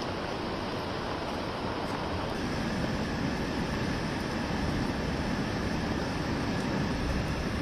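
Swollen river in flood, its fast water rushing with a steady roar that grows a little louder about two and a half seconds in.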